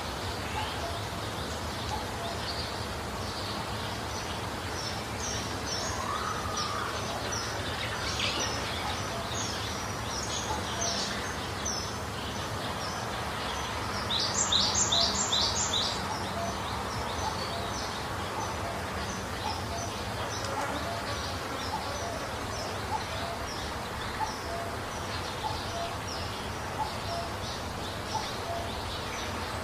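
Birds calling over a steady background hiss: short high chirps repeat about once or twice a second, with a louder run of about five quick chirps about halfway through.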